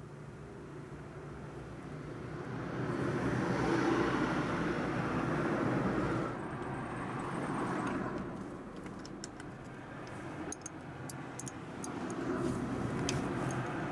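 A vehicle passing by, its noise swelling and fading over a few seconds, then a smaller swell near the end, over a steady low hum. Scattered light clicks come in after the first pass.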